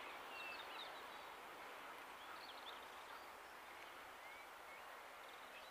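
Small birds chirping faintly at scattered moments over a faint steady background hiss that slowly fades.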